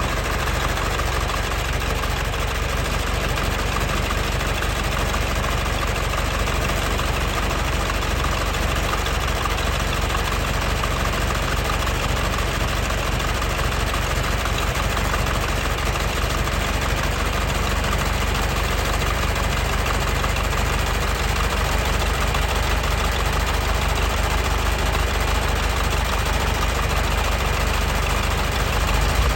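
John Deere 3020 tractor's four-cylinder engine running steadily at an even, unchanging speed.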